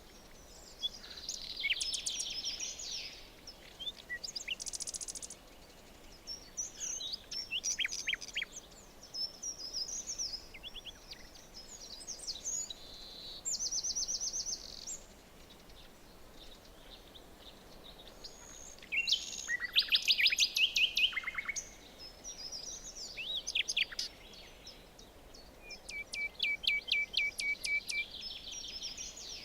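Several songbirds singing in turn, with chirps, trills and rapid runs of repeated notes, over a faint steady background hiss.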